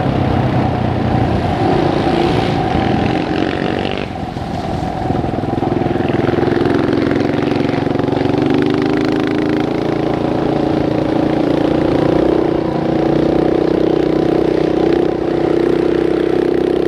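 Dirt bike engine running steadily under way, with a brief dip about four seconds in.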